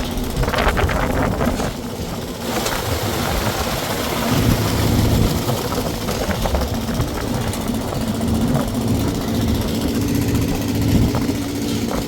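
Engine of construction machinery running steadily at the concrete pour, with a low drone throughout and some rattling and clatter in the first couple of seconds.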